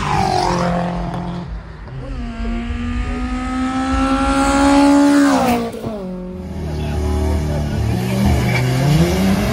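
Drag-racing car engine at full throttle down the strip, its pitch climbing steadily for a few seconds and then dropping sharply. After that, a car engine running at the start line, with a short rev near the end.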